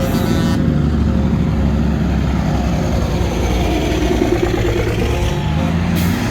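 Semi trucks' diesel engines running with a deep, steady rumble as the rigs move along.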